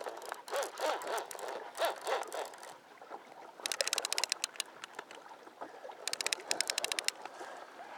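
Fishing reel clicking in two quick runs of rapid, evenly spaced clicks while a large mahi-mahi is being fought, over water sloshing against the hull.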